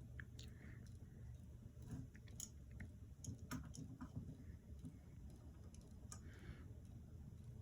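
Faint, scattered clicks and light taps of fan parts being handled, over a low steady hum.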